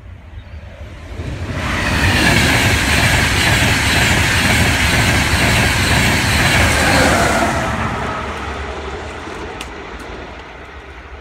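High-speed express passenger train passing at speed, a rushing rumble of wheels on rail and air. It builds about a second and a half in, stays loud for some six seconds, then fades away.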